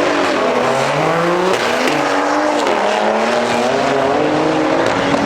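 Car engine revving, its pitch rising and falling several times, over a steady hiss.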